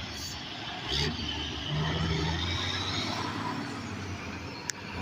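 Road traffic going by: steady engine rumble and tyre noise from passing vehicles, with a sharp click near the end.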